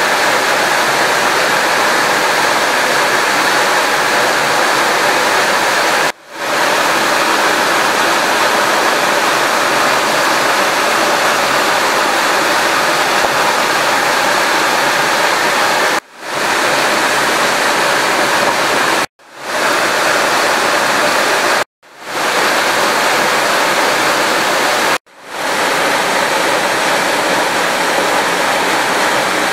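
Steady loud hiss of rain falling on water, broken by short silent gaps about five times and fading back in after each.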